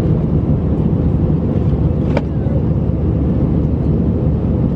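Steady low cabin roar of an Airbus A319 in flight, from its engines and the airflow, with one short click about two seconds in.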